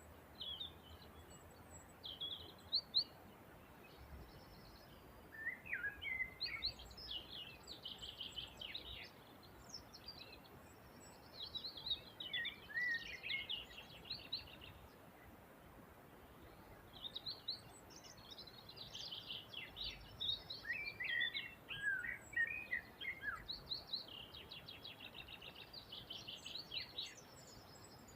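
Songbirds singing in bursts of rapid chirps and trills every few seconds, over a faint steady background hiss.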